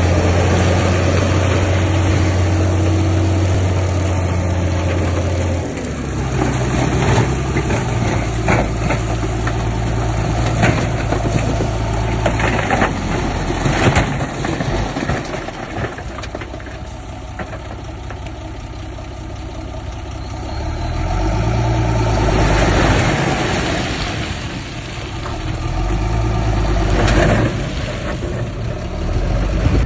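Heavy diesel engine of earth-moving machinery running under changing load, its pitch rising and falling several times, with scattered metallic clanks and knocks.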